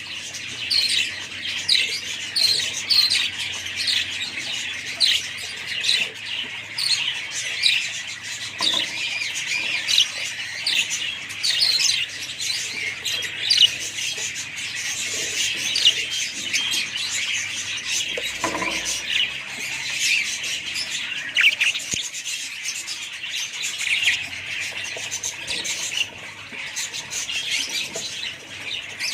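Many small pet birds chirping and squawking together in a continuous, overlapping chatter of short high calls.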